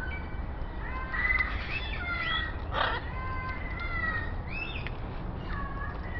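Parrots calling: a run of whistled calls that rise and fall in pitch, with a short harsh squawk about three seconds in.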